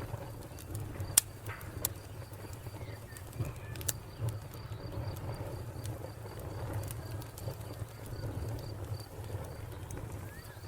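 Wood fire crackling, with scattered sharp pops over a low steady rumble. A cricket chirps in an even, steady rhythm behind it.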